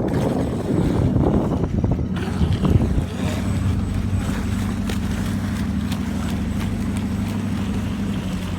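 Motorboat engine running with a steady low hum, preceded for about the first three seconds by rough wind and handling noise on the microphone.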